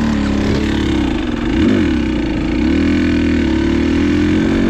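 An off-road vehicle engine running at a steady speed, its pitch wavering a little.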